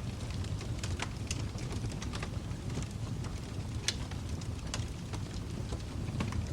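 Fire in a fireplace crackling: irregular sharp pops and snaps over a low steady rumble of the flames, with one louder pop about four seconds in.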